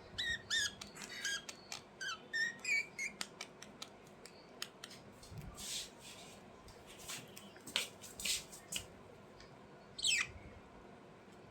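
Budgerigars chirping and chattering: a quick run of short chirps in the first three seconds, then scattered clicks and scratchy calls, and one falling squawk about ten seconds in.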